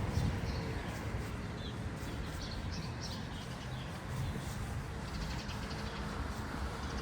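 Birds chirping in short high calls, with a quick run of repeated notes near the end, over a steady low rumble of traffic and outdoor background noise.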